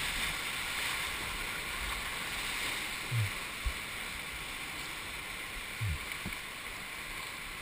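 River water rushing steadily around a raft, with a few short dull thumps, two a little past three seconds in and two around six seconds in.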